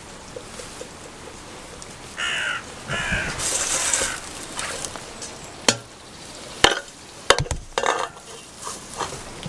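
Two short harsh calls about a second apart, followed by a burst of rustling and several sharp knocks, over the steady hiss of falling rain.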